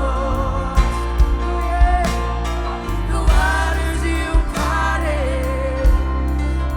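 Live worship band playing a slow song: drum hits over a steady bass and sustained keyboard chords, with a voice singing long, wavering held notes.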